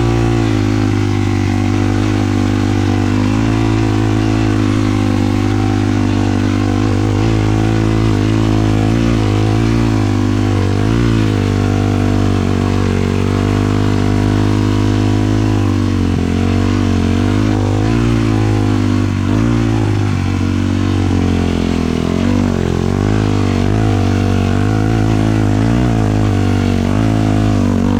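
A 450 sport quad's engine running steadily under way, its pitch wavering slightly up and down as the throttle shifts, with no sharp changes.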